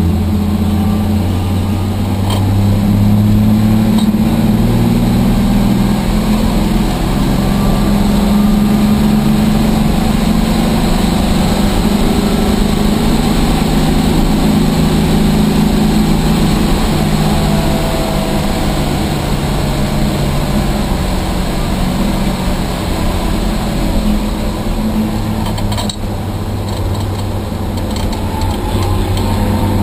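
Rambler race car's engine running hard at track speed, heard from inside the stripped cabin. The engine note rises and falls steadily with throttle, and there is a brief dip near the end.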